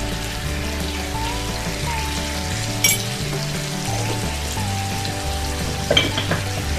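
Chicken pieces and onions sizzling steadily in hot mustard oil in a steel kadai, with two sharp clicks, about three seconds in and near the end. Background music with a slow melody plays over it.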